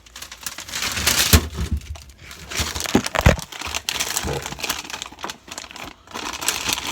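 Plastic bags and food packaging crinkling and rustling as items are handled out of a fridge shelf, with a few knocks near the middle.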